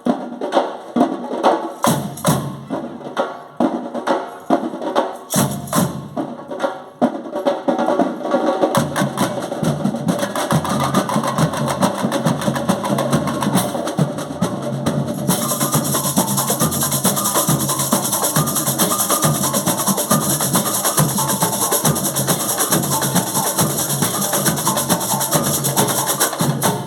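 Live band playing in rehearsal. It opens with sharp percussion strikes and drum fills, then the full band comes in with a steady bass line, and cymbals join about halfway through. The music cuts off suddenly at the end.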